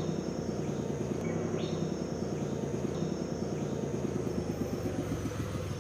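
Bus engine running with a low, rattling rumble that begins to die away near the end, over a steady chirring of insects.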